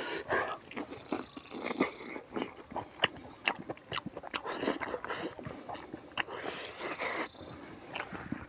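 Close-up chewing and lip-smacking of a person eating smoked pork and rice by hand: a run of short, irregular wet smacks and clicks.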